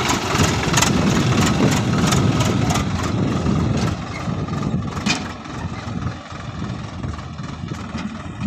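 Tractor engine running with a rapid clatter, loud at first, then dropping off about four seconds in and quieter still near the end.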